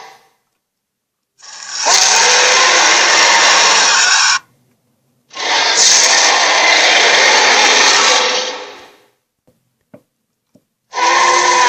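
Monster sound effect: a loud, harsh, noisy growl played over and over in bursts of about three seconds with silent gaps between. The second burst fades out, a few faint clicks follow, and a third begins near the end.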